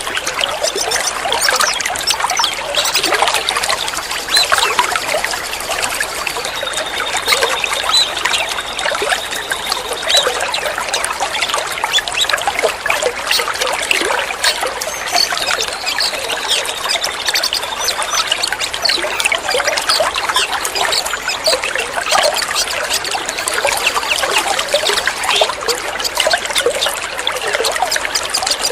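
Water trickling and splashing steadily, a dense continuous babble of small drips and splashes. A thin, high, steady tone sounds twice over it, once about a quarter of the way in and again a little past the middle.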